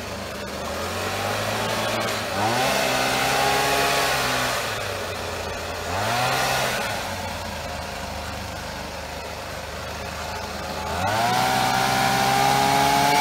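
Small engine revving up three times, about 2.5 s, 6 s and 11 s in, easing back between the first two and holding at the higher speed after the last.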